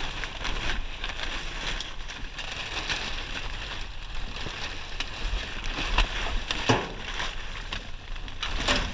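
Plumbing scrap being rummaged and shifted by hand in a dumpster: a run of irregular clatters and knocks over a steady rustle, the sharpest about six seconds in and near the end.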